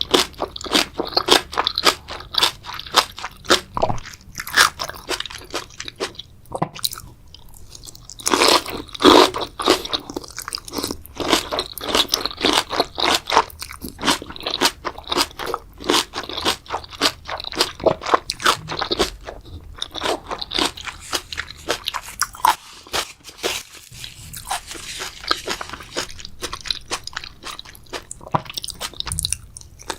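Close-miked ASMR eating sounds: a person biting and chewing spicy seafood boil, a dense run of quick crunchy, wet clicks.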